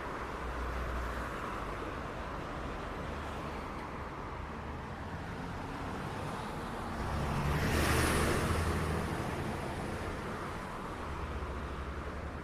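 Steady city traffic noise with a low engine rumble; about seven seconds in, a vehicle passes close, swelling louder and then fading over about three seconds.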